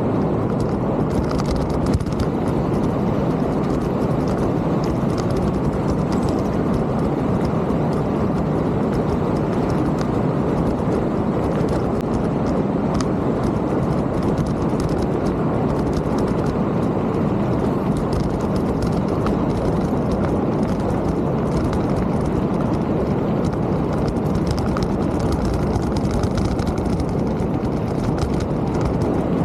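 A mountain bike being ridden: a steady rush of wind and tyre noise, with light rattling and clicking from the bike and trail throughout.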